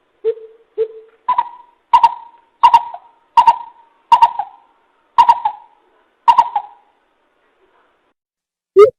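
Greater coucal calling with deep hooting notes: two low hoots, then seven higher hoots that come further and further apart and stop about seven seconds in. A quick run of low hoots starts right at the end.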